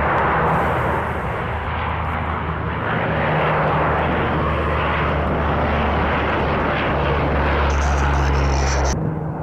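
C-130 Hercules four-engine turboprop aircraft running steadily: a loud, continuous drone with a low hum, changing abruptly near the end.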